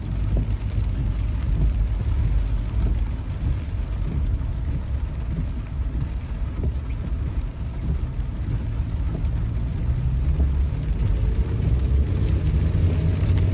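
A car driving, heard as a steady low rumble of engine and road noise, with a faint whine rising in pitch near the end.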